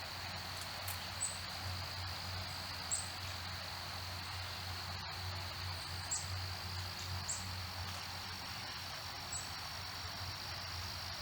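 Insects trilling steadily and high-pitched. About five short, high, falling chip notes from a small bird sound over it, spaced a second or more apart.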